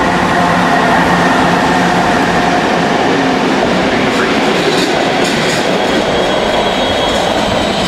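Historic train of an E656 electric locomotive, a freight wagon and an ALn772 railcar passing close by at speed, a loud, steady rush of wheels on rail. A steady hum from the locomotive is heard at the start and fades as it goes by, and sharp clicks of the wheels come through in the second half.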